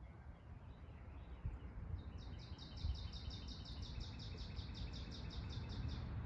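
A songbird singing a fast trill of evenly repeated high notes, about five a second, starting about two seconds in and lasting about four seconds, over a low steady rumble.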